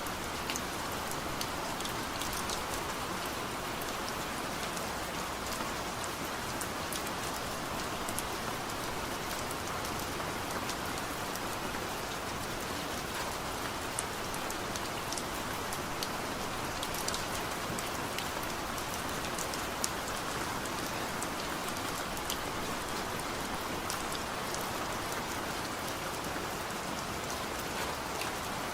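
Steady heavy rain, a continuous wash with many small distinct drop impacts on a surface.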